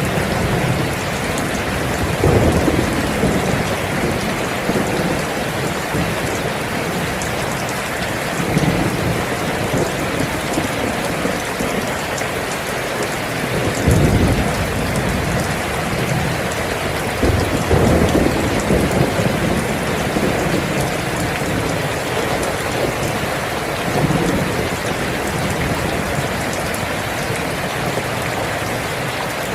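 Steady heavy rain, with several low rumbles of thunder swelling up through it; the strongest comes about halfway through.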